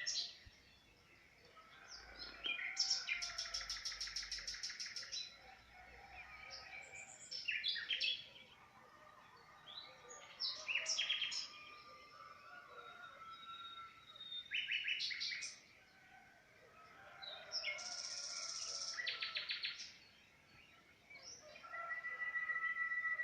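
Songbirds singing and calling: several rapid trills of fast repeated high notes, short chirps between them, and a long steady whistled note near the end.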